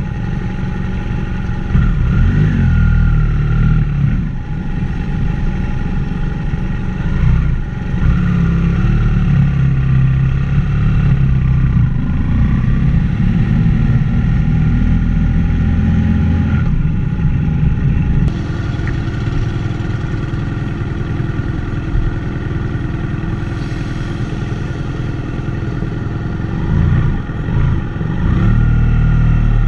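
Motorcycle engine running steadily while under way, its pitch shifting a few times as the revs change.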